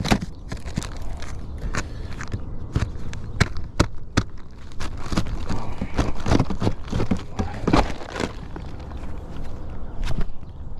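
Footsteps and scuffs on an asphalt shingle roof: irregular sharp knocks and scrapes, closest together in the middle stretch.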